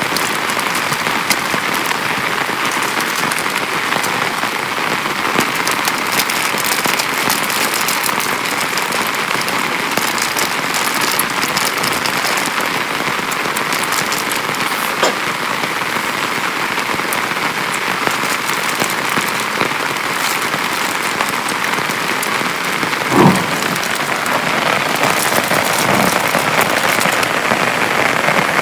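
Heavy rain pattering steadily on a small tent, with one brief louder knock about three quarters of the way through.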